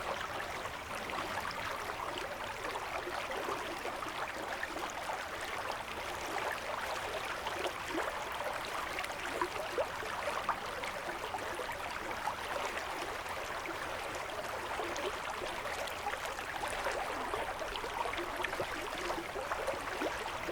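River water rushing steadily over rocks, an even hiss with small splashes throughout.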